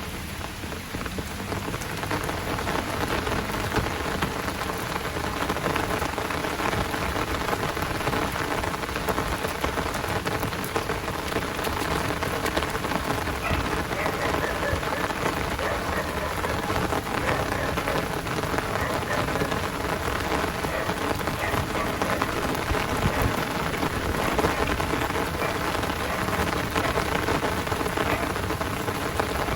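Heavy downpour rain falling steadily: a dense, even hiss of countless drops striking surfaces.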